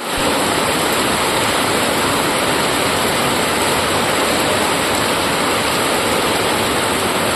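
Rain falling: a steady, dense hiss with no single drops standing out.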